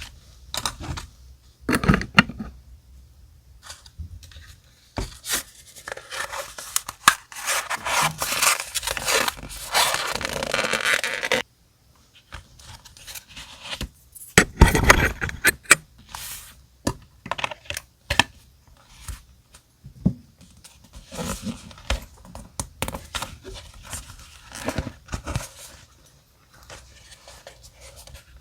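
Close-up paper handling while a travel journal is decorated: rustling, scraping and tearing of paper, with light taps. A few seconds in, a dense crinkling rustle runs for several seconds and then stops abruptly. A single louder knock follows a few seconds later.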